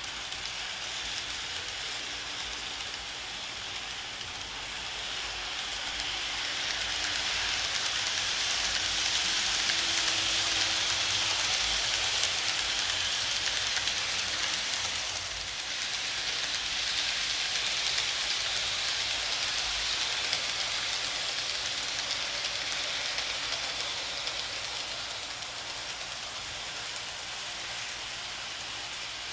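KATO N-gauge E353 series model train running on layout track: a steady hissing of the wheels on the rails and the small motor. It grows louder for about fifteen seconds in the middle, then eases off.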